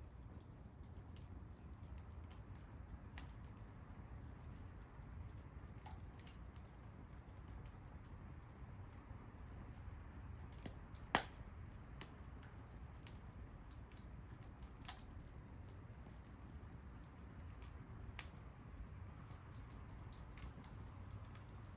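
Wood fire crackling: scattered small pops at irregular times, with one louder pop about eleven seconds in, over a faint low rumble.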